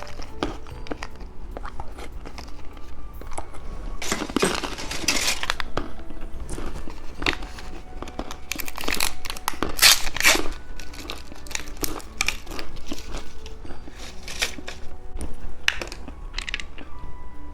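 Plastic candy wrappers crinkling and tearing, with crunches of hard candy, over soft background music. The loudest rustling comes about four seconds in and again about nine to ten seconds in.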